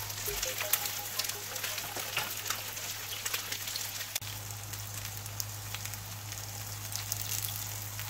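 Eggs, bread and sausage frying in vegetable oil in a nonstick pan: a steady sizzle full of irregular small crackles and pops.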